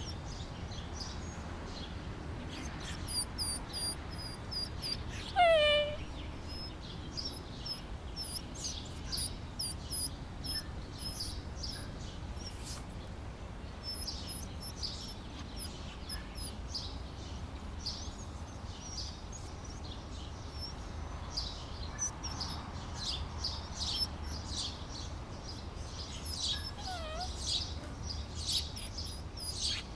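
Small birds chirping continuously, with quick high-pitched twitters. About five seconds in, one louder call slides sharply downward in pitch. A faint low hum runs underneath.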